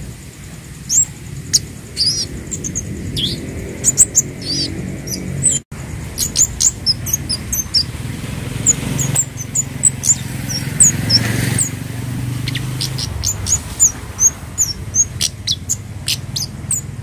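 Scarlet-headed flowerpecker (kemade, cabai jawa) calling: a busy run of short, sharp, high-pitched chirps and ticks over a low steady hum, with a brief cut-out about five and a half seconds in.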